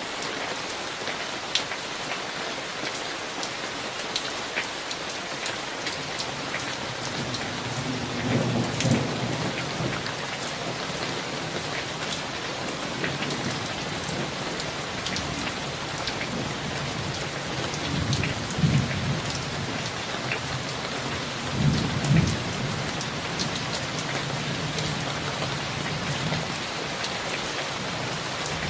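Steady heavy rain falling on surfaces, with many sharp drop ticks. Low thunder rumbles roll in from about six seconds in, swelling loudest three times: about 8–9 s, 18–19 s and 22 s.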